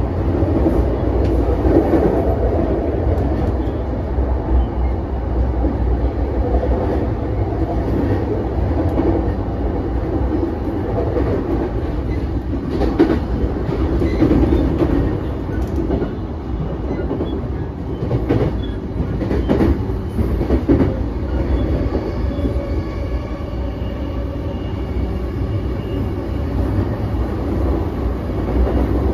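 Interior running sound of a JR East E233 series 5000 subseries electric train travelling at speed: a steady rumble of wheels on rail, with a few sharper clacks in the middle stretch.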